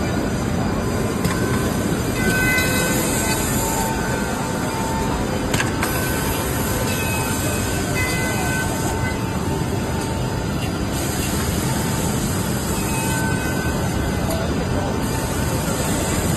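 IMAI NC480 KFB edgebanding machine running: steady, loud mechanical noise with faint whines, and a high hiss that comes and goes every few seconds.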